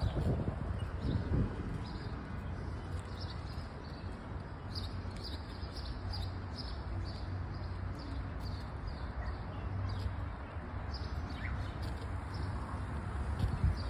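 Small birds chirping: many short, high chirps, several a second at their busiest in the middle stretch, over a steady low rumble.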